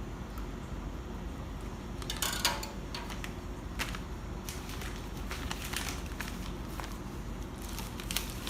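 Scattered clicks and light clatter, like utensils or dishes being handled, over a steady low hum. There is a busier cluster about two seconds in and a few more clicks near the end.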